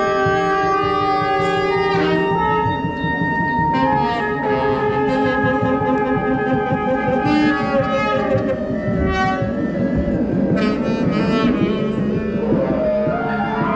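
Group free improvisation: several instruments play at once, with held notes and overlapping lines, and a rising slide near the end.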